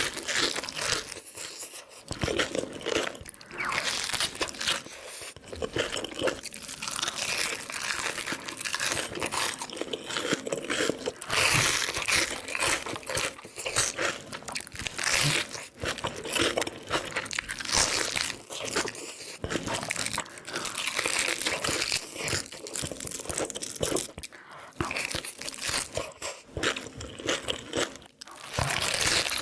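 Close-miked biting and chewing of crunchy food: dense, sharp crackling crunches with a few short pauses.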